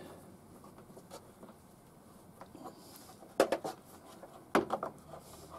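Two short clusters of sharp clicks and knocks, about a second apart: the chainsaw's combination spanner working on the saw as the chain is slackened.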